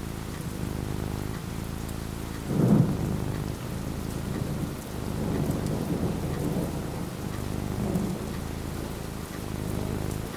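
Steady rain falling, with thunder: a loud rumble about two and a half seconds in, then lower rolling rumbles through the middle.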